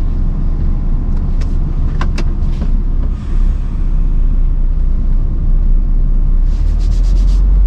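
Heavy lorry's diesel engine running as it pulls away, heard from inside the cab as a steady low rumble that grows a little louder about three seconds in. A few light clicks come around two seconds in, and a quick run of ticks near the end.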